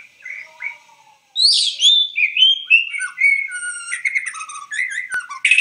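Bird song: a quick run of whistled, warbling notes that glide up and down, with one sharp click about five seconds in.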